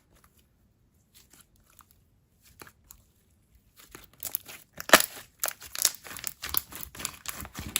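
Coated jelly slime being squished and worked by hand, making dense, irregular crackling and clicking sounds that start about halfway in after a nearly quiet start with a few faint clicks.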